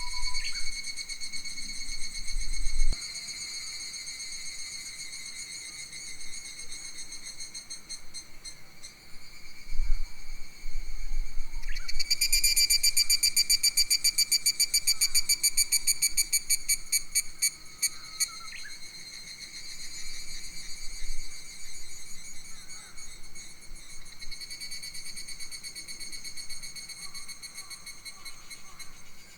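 Summer forest insects trilling steadily. A louder, rapidly pulsing insect call rises about twelve seconds in and fades out after about six seconds. Faint bird chirps come through now and then, and low wind rumble hits the microphone at the start and around ten seconds in.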